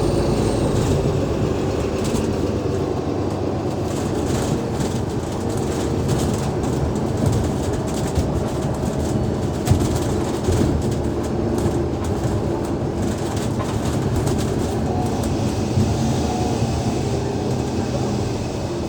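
Alexander Dennis Enviro500 MMC double-decker bus heard from inside while under way: its Cummins ISL 8.9-litre six-cylinder diesel runs steadily under road and tyre noise. Frequent small rattles and clicks from the bus body and fittings run through it.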